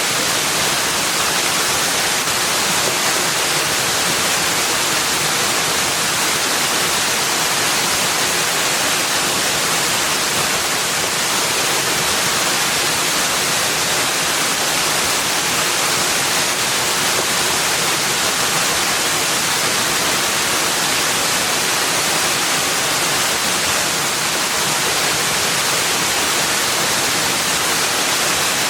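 Steady, even rushing hiss of falling water, unchanging throughout, with no birdsong or other separate sounds standing out.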